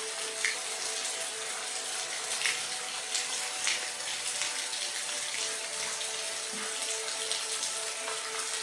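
Steady rain falling, an even hiss with scattered louder drips and splashes.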